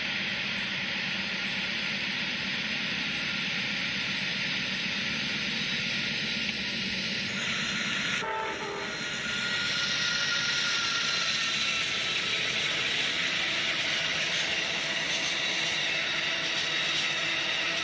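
A passing train with a steady rush of wheel and rail noise. A brief pitched sound with several tones comes about eight seconds in.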